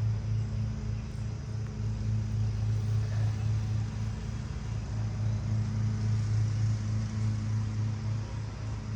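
Honeybees in an open hive buzzing: a steady, continuous low hum.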